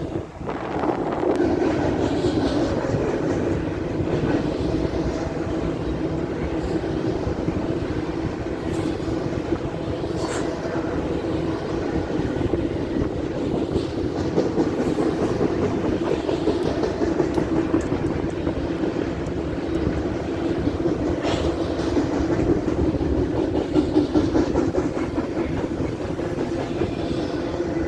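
Freight train, a high-priority intermodal Z train, rolling past: steady, loud noise of steel wheels on rail.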